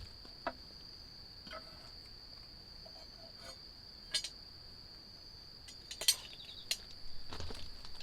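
Crickets trilling steadily on one high note, with a few scattered sharp clicks.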